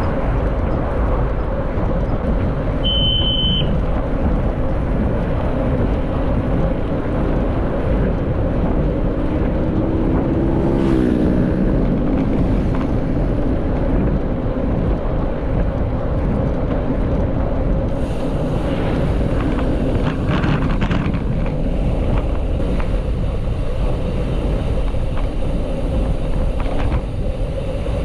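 Steady wind rumble buffeting the microphone while riding, with a brief high squeak about three seconds in.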